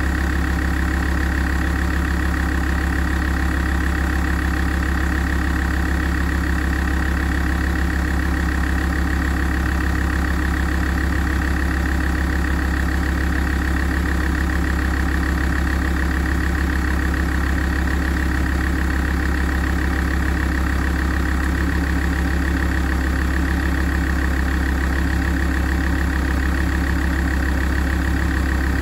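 Alfa Romeo 166 2.4 JTDm five-cylinder common-rail diesel idling steadily as it warms up.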